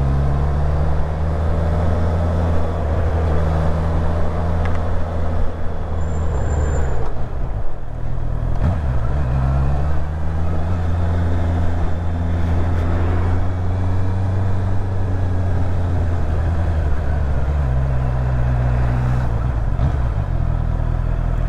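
Car engine humming steadily with road noise while driving; the engine note drops and climbs again about eight seconds in, and shifts once more near the end.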